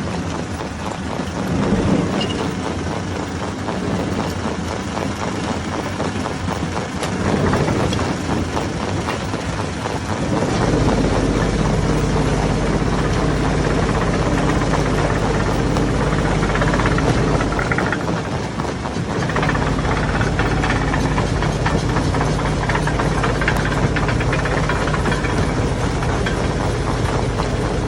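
Hammer stone crusher running, with a dense, continuous rattle of rocks being smashed. A deep steady machine hum comes in about ten seconds in, drops out briefly around eighteen seconds, and then returns.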